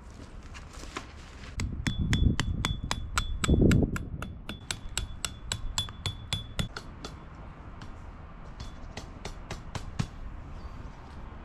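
A rapid, even run of sharp metallic taps, about five a second, with a faint ringing tone, mixed with a few dull thuds at first; after a few seconds it thins to scattered taps.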